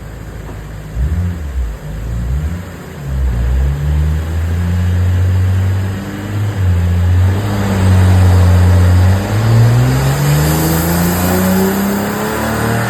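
BMW 335i's N54 twin-turbo straight-six running on a Dynapack dyno: uneven revs at first, then held at a steady speed, then from about two-thirds of the way through the revs climb steadily in a pull.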